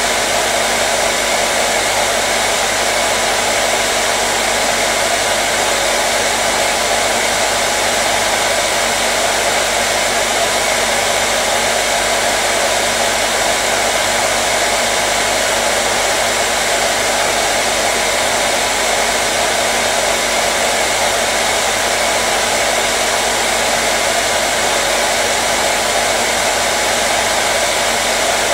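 Hair dryer running steadily: a constant rush of air with a motor hum.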